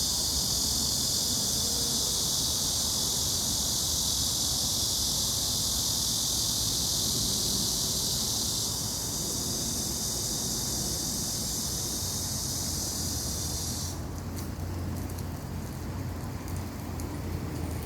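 Steady, high-pitched chorus of insects that cuts off suddenly a few seconds before the end. A low hum comes in shortly before the cutoff and grows louder near the end.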